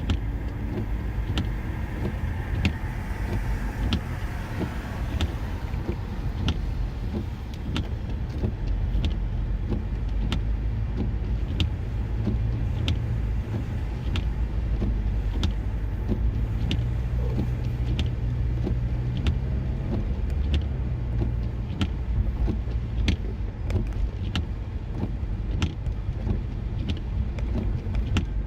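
A car driving, with a steady low rumble of road and engine noise and a light click about once a second.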